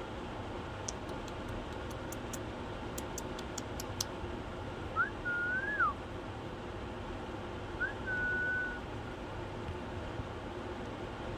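A pet parrot whistling twice. About five seconds in comes a whistle that rises, holds and falls away; a few seconds later a shorter one rises and then holds level. Before these, a quick run of faint sharp clicks sounds over a steady background hiss.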